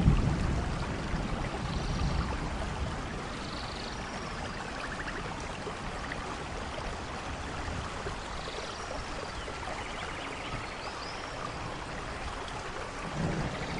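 Steady rain falling in a rainforest, with a low rumble of thunder dying away in the first couple of seconds and another beginning to build near the end. Faint high chirps and a short trill sound over the rain.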